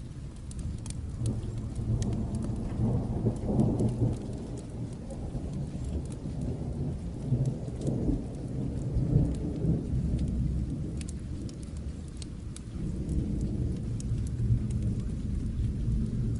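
Distant thunder rumbling in long, deep rolls over steady rain. The rumble builds about a second in, swells twice, eases off, then rolls in again near the end, while a fireplace crackles with sharp little snaps throughout.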